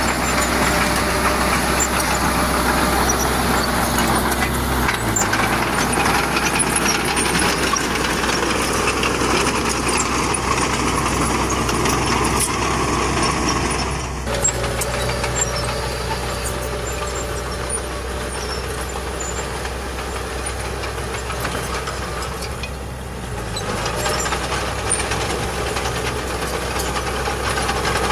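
Heavy earthmoving machinery's diesel engines running steadily, the engine note shifting a few times and growing a little quieter for several seconds midway before rising again.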